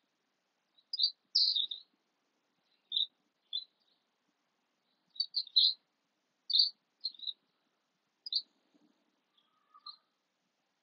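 Small bird chirping: short, high chirps in scattered groups of two or three, with quiet gaps between them.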